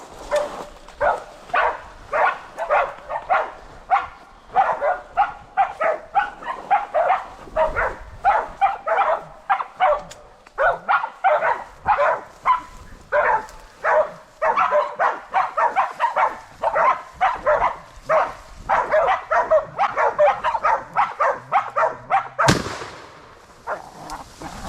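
Bailing dogs barking rapidly and without let-up, about two to three barks a second. A single sharp bang comes near the end.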